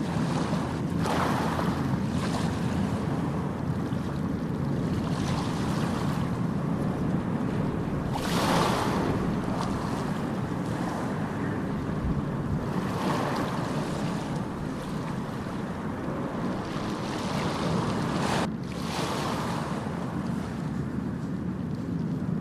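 Ocean surf: a steady low rumble of breaking waves with hissing washes surging every few seconds, the strongest about eight seconds in.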